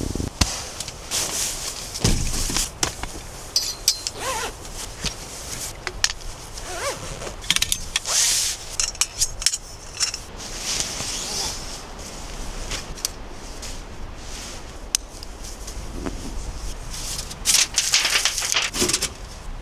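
Irregular rustling, scraping and light clinks and knocks of camping gear being handled and packed.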